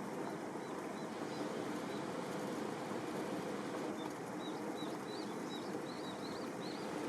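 Small bird chirping in short rising-and-falling notes, a few at first and then a quick run of them over the last three seconds, over a steady rushing noise.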